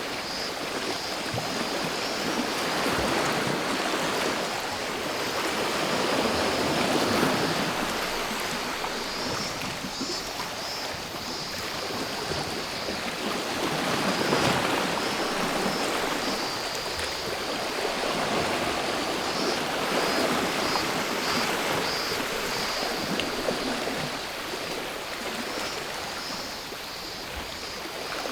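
Sea waves washing in and drawing back, swelling every several seconds, with a steady high buzz of cicadas throughout.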